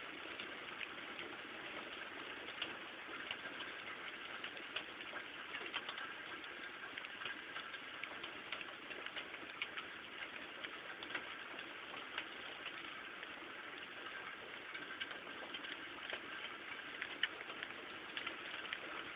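Steady rain falling during a thunderstorm, with frequent sharp taps of drops hitting nearby surfaces.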